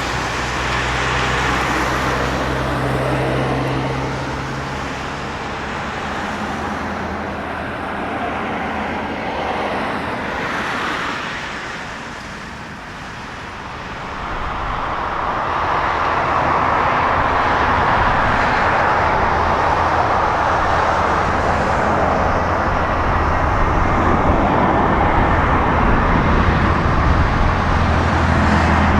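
Jet airliner engine noise: a steady rumble with a low hum for the first few seconds, dipping about 12 seconds in, then swelling from about 14 seconds in into a louder, steady roar.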